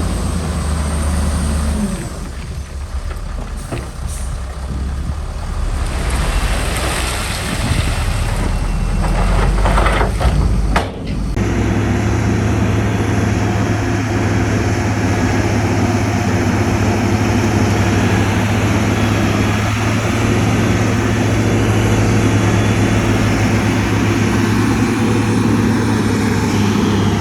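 Heavy diesel construction machinery at work: a shifting, noisy engine-and-machinery sound for the first part, then a sudden break about eleven seconds in, after which a steady diesel engine drone runs on.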